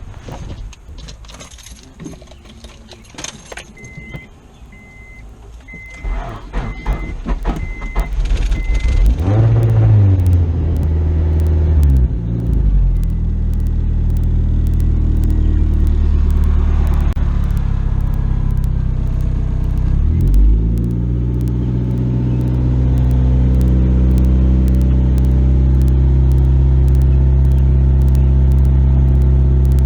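Keys jangling and a warning chime beeping. Then the turbocharged F22B four-cylinder of a 1994 Honda Accord cranks and catches on its first start after a cylinder-head rebuild. It revs up and falls back, blips once more about twenty seconds in, and settles into a steady idle.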